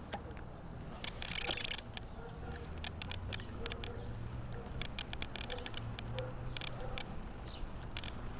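Irregular clicking and rattling from a walked bicycle and the camera clamped to its handlebars, with a dense clatter about a second in and a steady low hum beneath.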